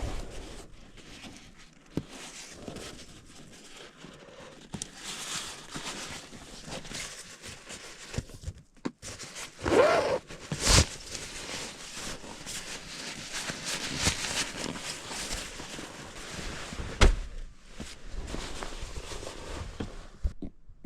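Rustling and handling noises with scattered knocks and thumps; a brief sound rising in pitch about ten seconds in is followed by a sharp knock, and there is a sharp thunk about seventeen seconds in.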